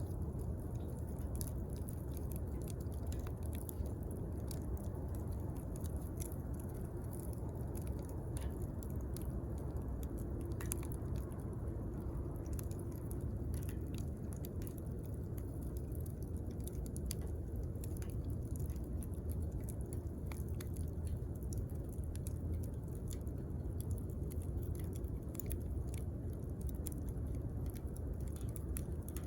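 Wood campfire crackling: many small irregular pops and snaps over the steady low rumble of the flames.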